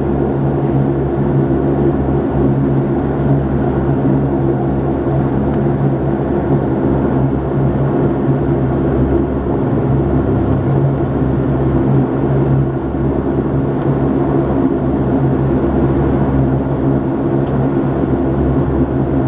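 Steady drone of a Saab 340B's twin turboprop engines and propellers heard inside the cabin, with a constant low hum of several even tones.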